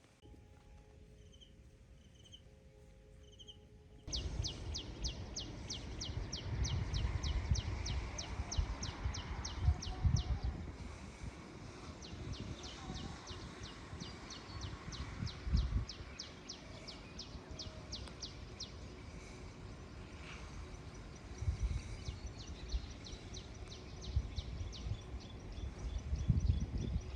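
Outdoor ambience: a rapid, even series of high chirps, about five or six a second, starting suddenly about four seconds in, over bursts of low rumble.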